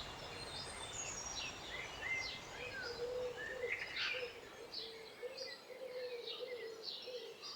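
Small birds chirping and singing, many short overlapping calls and trills, with a faint steady hum beneath.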